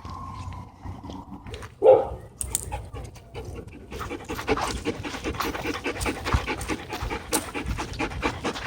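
A dog panting fast and hard, the quick breaths thickest from about halfway through. About two seconds in there is a single short, loud sound.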